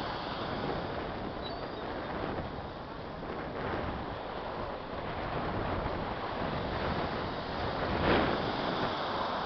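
Ocean surf washing onto a sandy beach, with wind buffeting the microphone; a louder swell of surf about eight seconds in.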